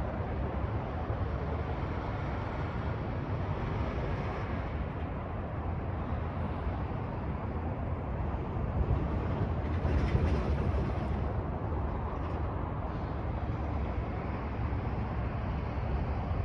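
A train rumbling past, a steady low rumble with a brief louder swell about ten seconds in.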